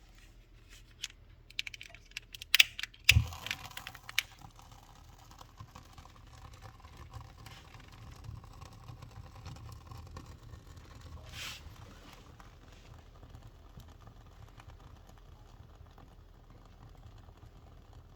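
A wood fire being lit in a fireplace: sharp clicks and a loud knock in the first few seconds, then the young fire crackling softly with many small pops, and a brief hiss about eleven seconds in.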